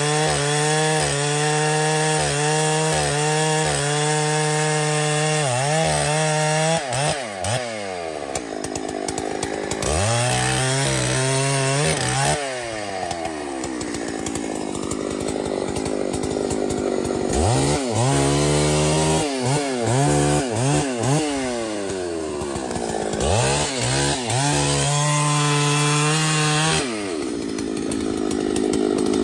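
Chainsaw cutting wood, its engine held at high revs, then dropping back and revving up again several times.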